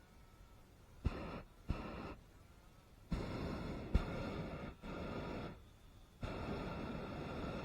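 Hot air balloon's propane burner firing in on-off blasts, each starting with a sharp click as the valve opens: two short blasts, then longer ones from about three seconds in with a brief break near six seconds.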